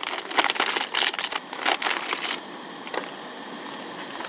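Instant-noodle packets crinkling and rustling as they are handled, with a steady hiss from a pot of water at a hard boil; the rustling stops about two and a half seconds in, leaving the hiss.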